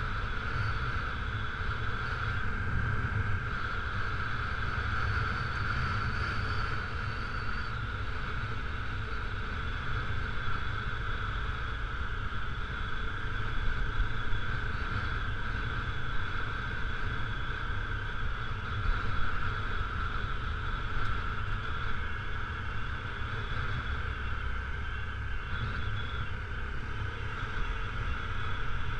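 Honda CRF250L's single-cylinder four-stroke engine running steadily while riding a gravel dirt road, over a constant low rumble.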